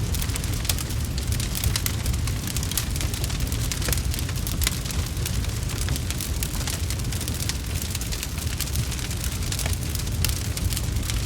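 Fire crackling in a fireplace: many sharp snaps and pops, irregular and close together, over a steady low rumble.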